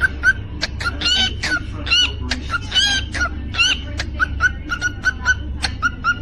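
Cockatiel singing: a quick run of short chirps, about three or four a second, broken in the middle by a few longer, bending whistles. A steady low hum lies underneath.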